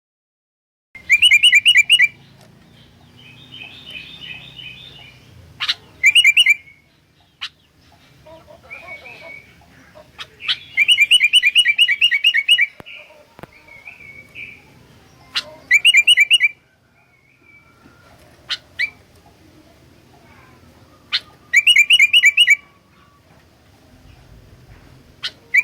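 Sooty-headed bulbul (kutilang) singing in loud bursts of fast, repeated chattering notes, each burst a second or two long and coming every four to five seconds, with softer calls between. The first burst comes about a second in.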